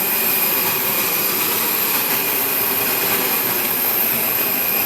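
Steady rush and whine of a parked airliner heard inside its cabin, an even air-and-machinery noise with a thin high whistle held over it.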